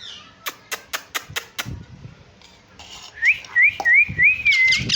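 Ring-necked parakeet whistling a run of four or five short rising notes, then breaking into a harsh screech near the end. Earlier, about six sharp clicks come in quick succession.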